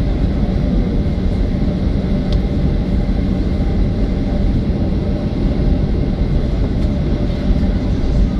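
Boeing 737-800's CFM56 jet engines running with a steady rumble and a faint steady whine over it.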